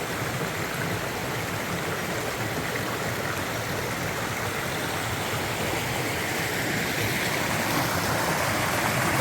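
A mountain stream rushing and splashing over rocks, a steady even sound of flowing water that grows slightly louder near the end.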